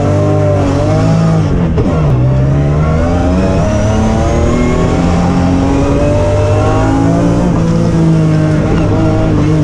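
BMW rally car's engine under hard acceleration, heard from inside the cabin: revs climb in first gear, drop sharply at a shift into second about two seconds in, then rise steadily through second before easing off near the end.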